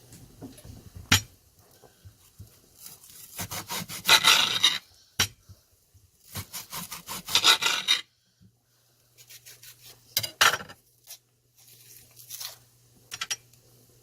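Kitchen knife sawing and scraping through an onion: two runs of quick rasping strokes, each lasting about a second and a half, with a few sharp knocks and shorter scrapes between them.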